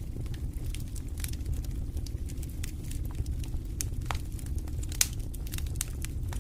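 Wood fire burning in a fireplace: a steady low rumble of flames with scattered sharp crackles and pops, one louder pop about five seconds in.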